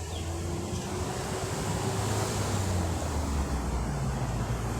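Road traffic on a busy main road: a steady low rumble of passing vehicle engines and tyre noise, growing slightly louder.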